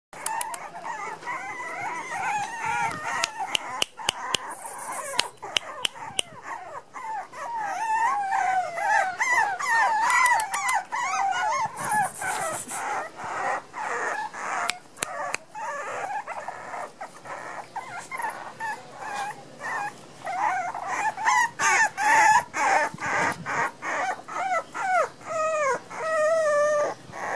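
A litter of miniature pinscher puppies, about six weeks old, whimpering and squealing: many short, wavering high-pitched cries overlapping one another, with scattered clicks and knocks.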